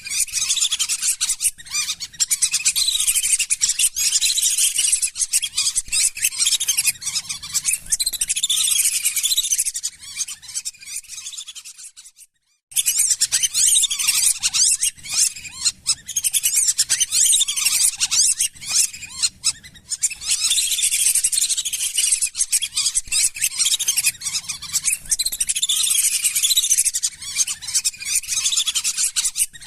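Lesser whistling ducks calling continuously: a dense flock chorus of high whistled chirps, used as a lure-call recording. The calls fade and drop to silence for under a second about twelve seconds in, then start again at full level.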